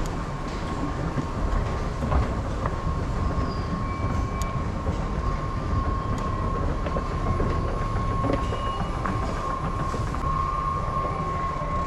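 Electric commuter train running, a steady low rumble with a constant high whine over it and a few faint clicks.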